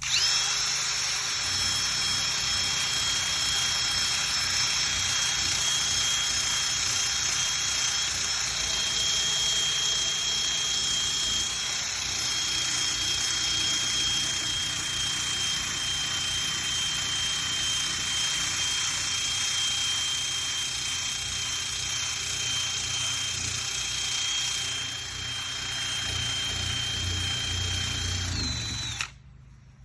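Electric drill with a sanding disc attachment running at speed against a painted metal hood: a steady high motor whine over a harsh sanding hiss. It spins up at the start and stops suddenly about a second before the end.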